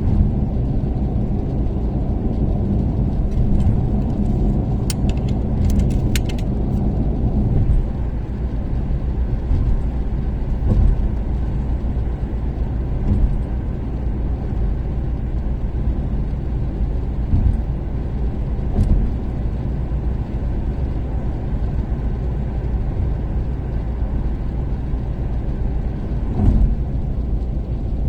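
Toyota Caldina's turbocharged 3S-GTE four-cylinder engine and tyre noise while cruising on an expressway, a steady low rumble that eases slightly about eight seconds in. A few sharp clicks come about five to six seconds in.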